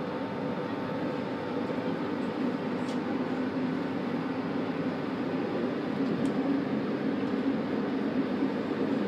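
Electric MOB Golden Pass Panoramic train running on its metre-gauge line, heard inside the lead car: a steady rolling rumble of wheels on rail with a low steady hum and a couple of faint ticks.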